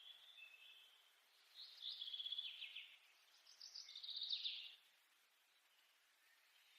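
A bird singing faintly in the background: two short, rapid trilled phrases about two seconds apart, over near silence.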